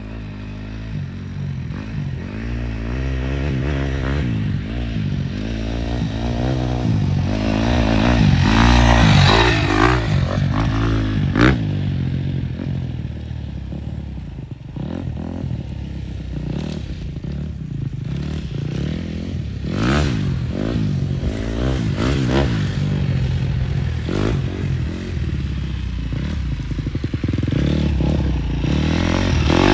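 Husqvarna TC250 four-stroke dirt bike engine being ridden, revving up and down again and again, loudest about nine seconds in, with a sharp click a couple of seconds later.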